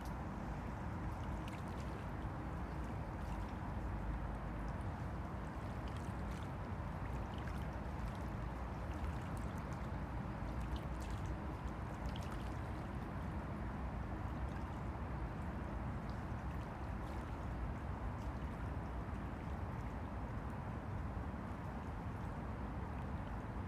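Small waves on the Han River lapping and splashing steadily, with many small, bright splashes over a continuous low wash.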